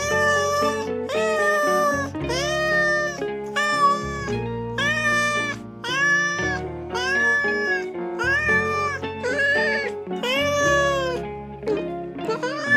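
Cat meows repeated about once a second, each a short call that rises then falls, over background music with sustained low notes.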